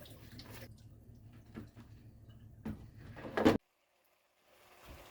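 Kitchen handling noises: scattered light clicks and knocks, with a louder knock about three and a half seconds in, then a second of dead silence before a low background hum resumes.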